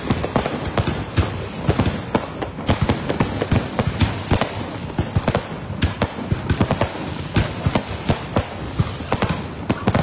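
Aerial fireworks display: shells bursting and crackling in a dense, continuous barrage of sharp bangs, several a second.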